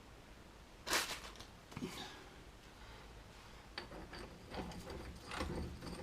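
Clinks and clatter of metal tools being handled: a sharp knock about a second in, another just before two seconds, then a run of smaller clicks and rattles in the second half.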